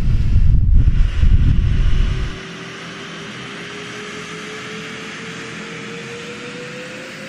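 Loud low rumbling, with wind buffeting the microphone, that cuts off abruptly about two seconds in. Then a steady hiss from aircraft engines, with a thin whine slowly rising in pitch.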